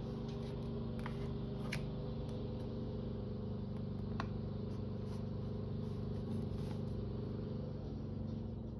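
A vehicle engine running steadily in the background, a low even drone that eases slightly near the end, with a few faint light clicks over it.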